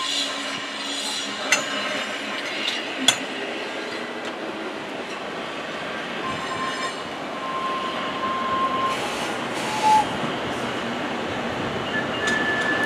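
Small 483 mm gauge mine railway train rolling along its track, heard from on board: a steady rattle of wheels on rail with two sharp metallic clinks early on. Brief high-pitched wheel squeals come in about halfway through and again near the end.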